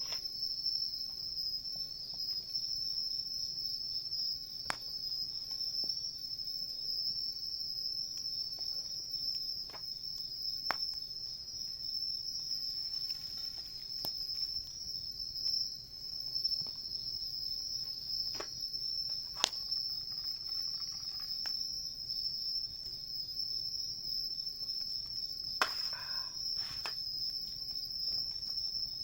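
Singing insects trilling in one steady, high, unbroken chorus. A wood campfire gives a few sharp crackles and pops every few seconds.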